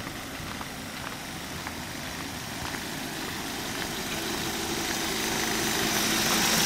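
Mazda 626's 2.0-litre four-cylinder engine idling steadily, its hum growing louder as the microphone nears the open engine bay.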